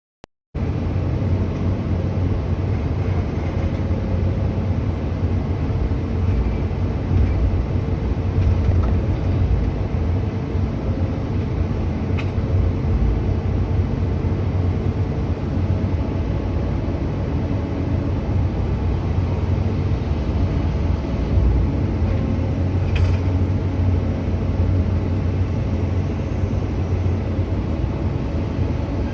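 Heavy diesel engine running steadily with a low rumble, with two faint clicks, one near the middle and one later on.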